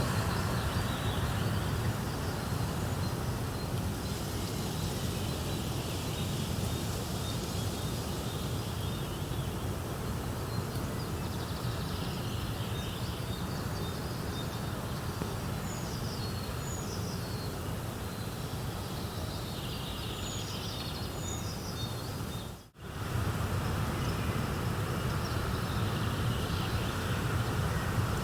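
Steady rushing nature ambience with birds chirping in short high calls now and then. The sound cuts out for an instant about three-quarters of the way through.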